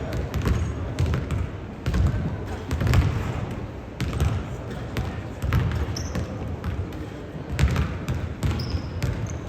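A basketball being dribbled on a gym floor, with repeated thumps and a couple of brief high squeaks like sneakers on hardwood.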